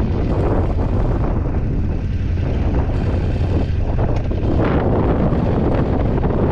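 BMW F850GS parallel-twin engine running under way, with wind buffeting the camera microphone as the motorcycle rides.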